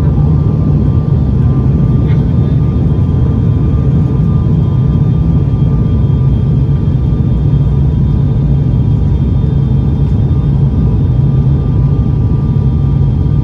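Steady drone of an ATR 72's turboprop engines and propellers heard inside the passenger cabin: a loud low rumble with faint, even whining tones above it.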